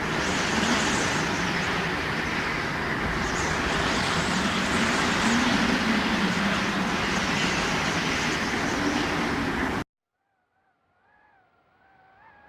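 Strong wind recording: a loud, steady rush of gusty wind with a faint low moan running through it, cut off abruptly near the end. After a moment of silence a faint, wavering, whistling wind howl begins.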